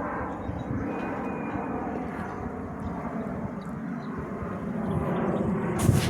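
Fixed-wing aircraft engine drone, steady and getting slightly louder toward the end. A single sharp click sounds just before the end.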